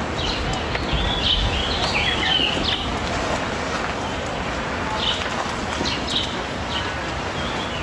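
Small birds chirping in short scattered calls over a steady low background rumble.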